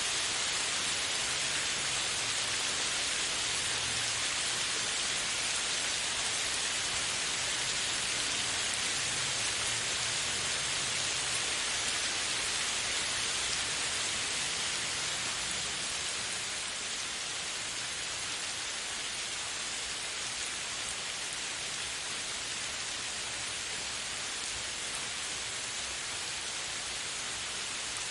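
Steady rain falling, a dense even hiss of drops, easing slightly in level partway through.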